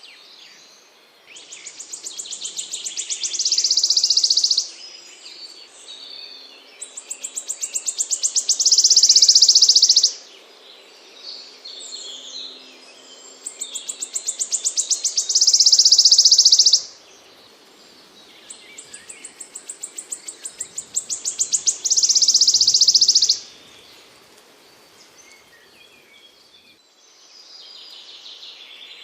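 A small songbird singing the same phrase four times, about every six seconds. Each phrase is a run of quick high notes that speeds up and grows louder, then ends abruptly in a loud, dense trill, with softer chirps between phrases.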